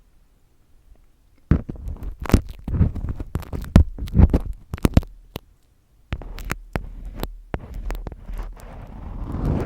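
Close-miked ASMR handling sounds: quick sharp taps and clicks over low, muffled rubbing and thumping against the microphone, starting after a quiet second and pausing briefly about halfway through.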